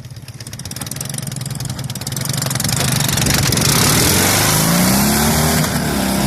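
Dnepr sidecar motorcycle's flat-twin engine under hard throttle, getting louder from about two seconds in and rising in pitch near the end as it revs up.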